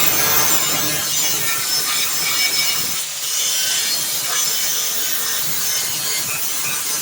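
Handheld grinder working along the edge of a steel sheet, a steady loud abrasive grinding that cleans the edge back to bare metal for welding.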